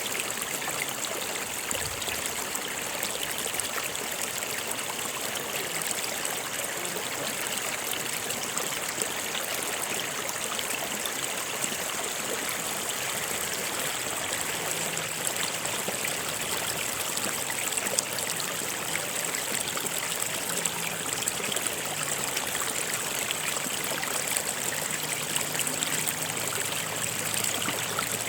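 Water of a stream flowing steadily, a continuous even rush and trickle.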